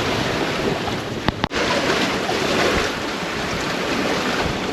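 Wind buffeting the microphone over waves washing past a sailboat under way, a steady rushing noise. About a second and a half in there is a sharp click and a brief dropout.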